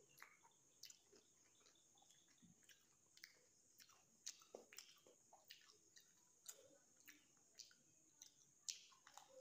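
Faint, irregular crackles and crunches of crisp pani puri shells being bitten and chewed.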